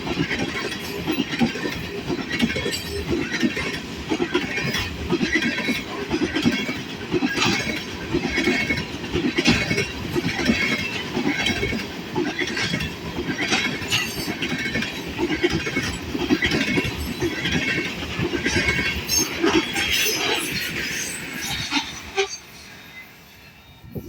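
Tank cars of a freight oil train rolling past, their wheels clattering over the rail joints in a steady, repeating rhythm. The noise drops off sharply near the end.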